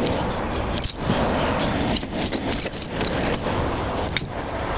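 Small metal pieces jingling in short spells, over a steady low engine rumble.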